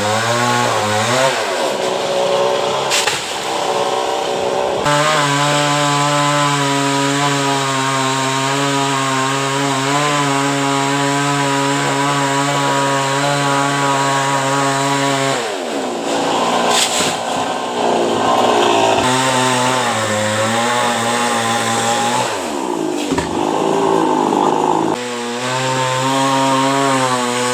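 Two-stroke chainsaw cutting a coconut palm trunk. It revs up and down, holds a steady high speed for about ten seconds, then drops back and revs up again.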